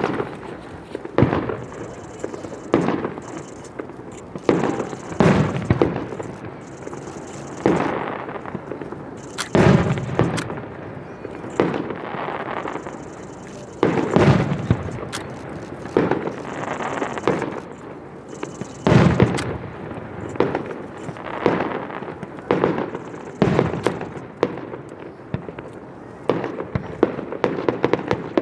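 Aerial fireworks shells bursting one after another, a sharp boom every second or two, each trailing off in a rolling echo.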